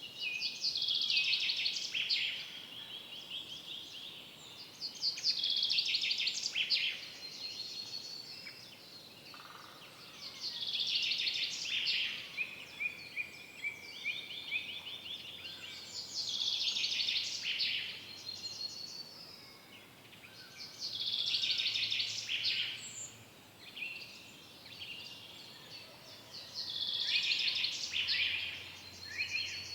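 Forest songbirds singing: one bird repeats a fast, trilled song phrase about every five seconds, six times, while softer chirps from other birds fill the gaps.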